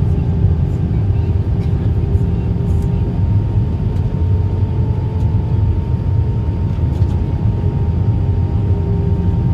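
Cabin noise of an Airbus A319 airliner: a steady, loud low rumble with a few faint steady tones running through it.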